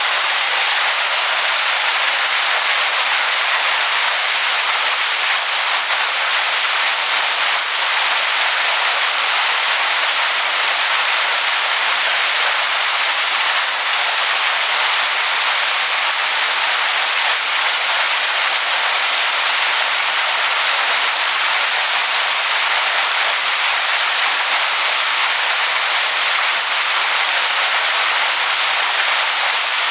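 Waterfall rushing over stones: a steady, even hiss of falling water with no change, bright and high with little low rumble.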